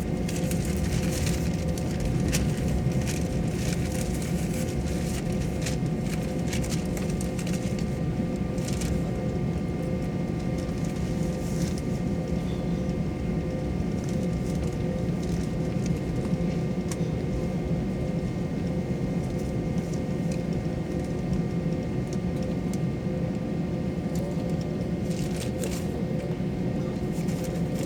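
Steady airliner cabin noise: a low engine rumble with several steady whining tones over it, and scattered light clicks and rattles.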